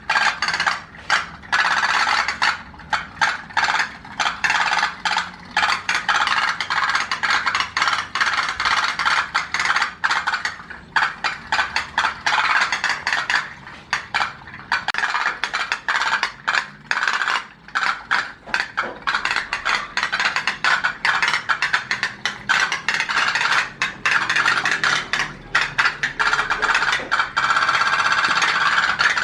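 Twin-engine, four-exhaust toy pop-pop boat running, its tin boilers making a rapid, uneven metallic clicking that goes on without a break.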